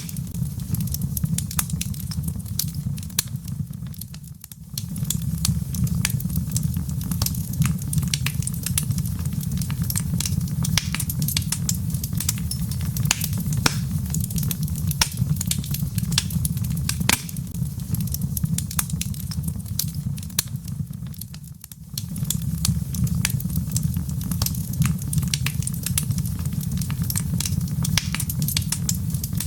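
Log fire crackling and popping, with many sharp snaps over a steady low rumble. The sound drops away briefly twice, about four seconds in and again about twenty-two seconds in.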